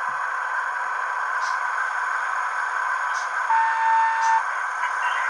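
Sound decoder in an HO-scale 2TE116 diesel locomotive model playing a steady diesel engine sound through its small speaker, narrow and tinny, with a short beep-like tone about three and a half seconds in.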